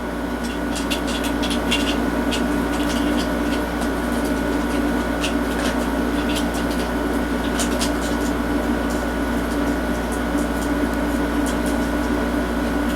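Steady hum of a fan or air conditioner in the room, with scattered light clicks and taps of plastic toy parts and an action figure being handled.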